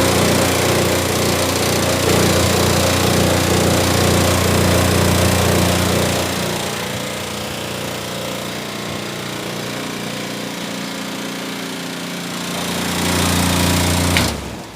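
A DC air room cooler's fan running with a loud buzzing rattle over a deep hum, the fan noise fault that DC-powered cooler fans are prone to. The noise eases off about halfway through, swells again near the end, then cuts off abruptly as the cooler is switched off.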